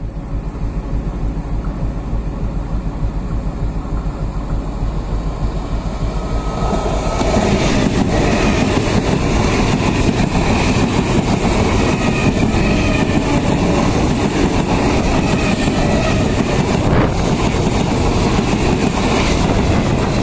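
Indian Railways local passenger train approaching on the adjacent track and passing close by at speed, its wheels and coaches rattling on the rails. The noise builds over the first seven seconds, then stays loud and steady as the coaches go by.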